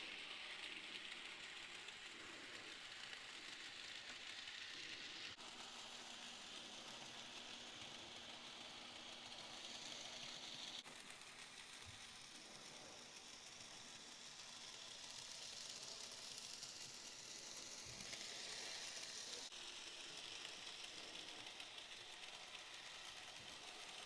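Small electric motor of an N scale model locomotive whirring faintly and steadily as it runs along the track, with a couple of soft clicks.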